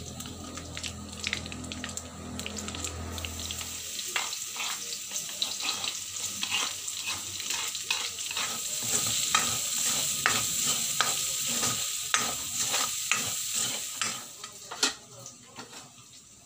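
Chopped onion and garlic sizzling in hot oil in a metal wok, with a wooden spatula scraping and stirring against the pan in many short strokes. The sizzle swells toward the middle and fades near the end, where a single sharp knock is heard.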